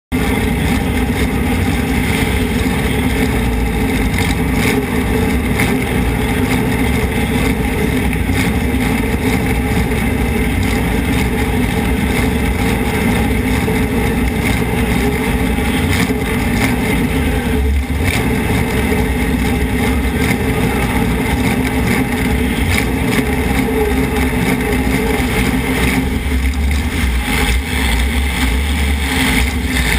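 Demolition derby car's engine running hard, loud and steady, heard from inside the car.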